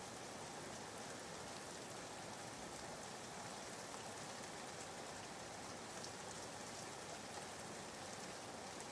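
Soft, steady rain ambience, an even hiss with faint scattered drop patter, added as background white noise for sleep.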